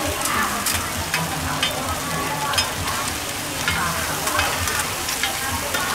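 Food sizzling in a hot pan while a cooking utensil stirs and scrapes it, with sharp clicks of the utensil against the pan about once or twice a second.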